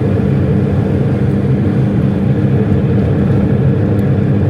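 Car engine running steadily at an even pitch, with no revving.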